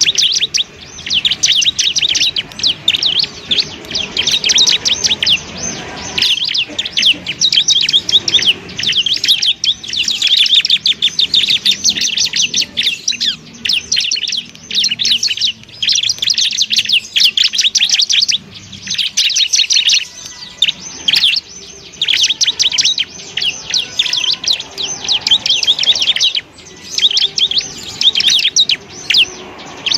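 Bar-winged prinia (ciblek) singing: a fast, dense stream of high, chattering notes in long runs of a few seconds, broken by short pauses.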